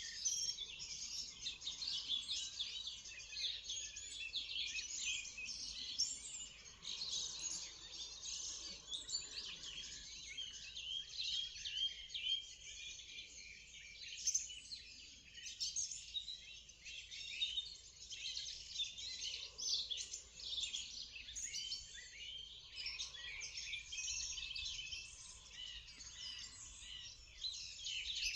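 Morning chorus of many songbirds: dense, overlapping high chirps and trills that never let up.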